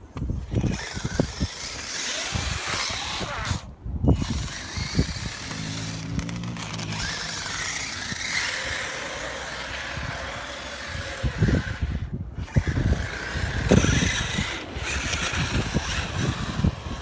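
Brushless electric motors of Traxxas T-Maxx RC trucks running through snow, their whine rising and falling in pitch, with strong wind noise and repeated thumps of wind hitting the microphone.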